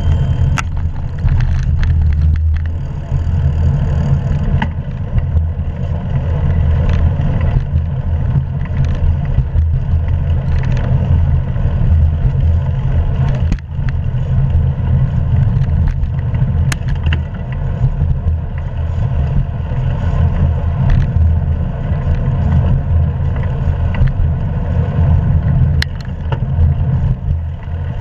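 Steady low rumble of wind and road noise on a GoPro action camera's microphone while a hybrid bicycle is ridden, with a few sharp clicks or rattles.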